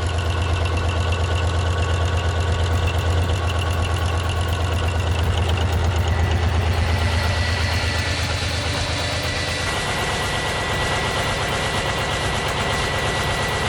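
Deutz TBD 620 V16, a 16-cylinder diesel engine, running steadily with a deep, rapid firing pulse. A thin high whine joins about halfway through.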